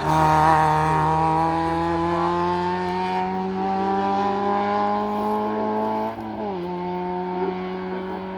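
Hill-climb race car engine pulling hard at steady, high revs, with the pitch creeping up slightly. About six seconds in the revs drop a step, then the engine holds again.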